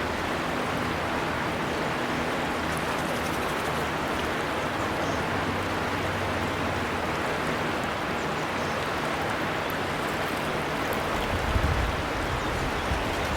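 River water flowing, a steady rushing. A brief low rumble comes near the end.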